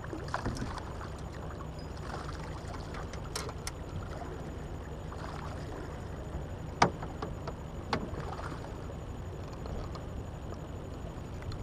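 Wind buffeting the microphone over water lapping at a small fishing boat, with a few sharp knocks on the boat. The loudest knock comes about seven seconds in and another a second later.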